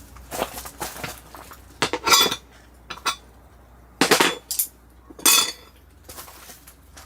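Metal cookware and utensils clattering and clinking in several short bursts, the loudest about two, four and five seconds in.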